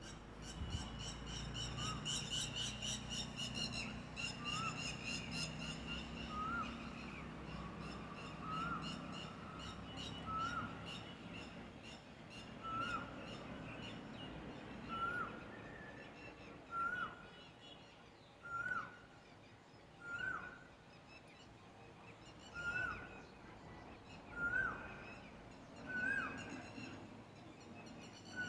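A bird calling a short whistled note about every two seconds, each note rising and then dropping quickly, repeated a dozen or so times. During the first several seconds a louder, high buzzing trill plays over a low rumble, and it fades out about halfway through.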